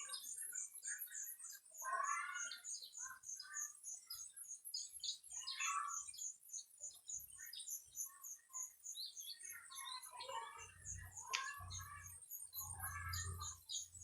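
Birds chirping and calling at intervals over a continuous fast, very high-pitched chirping. A low rumble comes in near the end.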